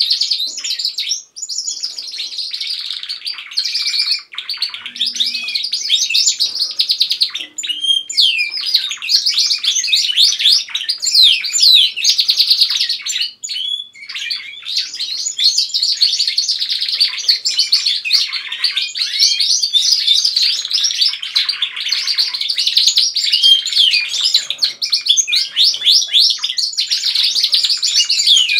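Several domestic canaries singing together, a dense and continuous run of fast trills, rolls and high chirps, with only a few brief pauses.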